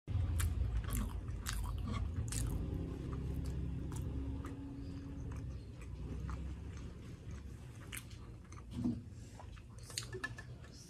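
Close-miked chewing of a mouthful of sisig and rice, with crunchy clicks over a low rumble. It is loudest in the first few seconds and then fades. Near the end comes a sip from a glass of iced tea.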